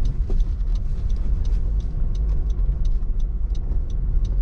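Inside a car driving on a snowy, icy street: a steady low rumble of tyres and engine, with faint irregular ticks over it.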